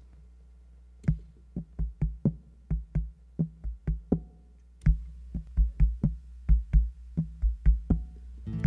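A sparse percussion beat of sharp knocks and low thumps starts about a second in, its pattern starting over after a few seconds as the opening of a song. Just before the end, sustained pitched instrument notes join the beat.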